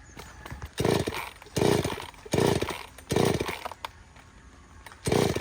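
Stihl 070 two-stroke chainsaw engine sounding in short, loud bursts: four in quick succession, a pause, then another near the end.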